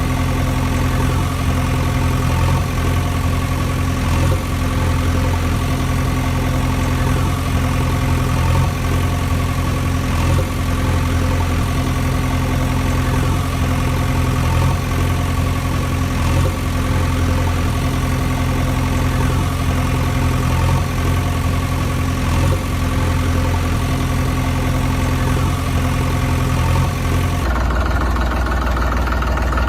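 Tractor engine idling steadily. Near the end it changes abruptly to a deeper engine sound.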